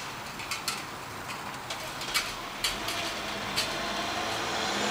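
Rain during a thunderstorm: a steady hiss with irregular sharp clicks of drops striking a hard surface close by, the hiss swelling near the end.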